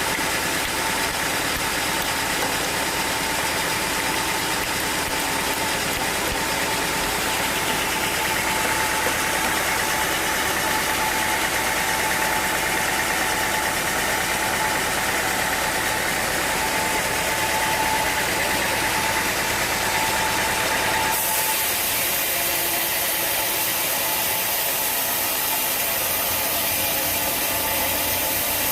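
Sawmill machinery running steadily: a loud mechanical hum and hiss with several fixed tones. About 21 seconds in, the sound changes abruptly, with more high hiss and much less low rumble.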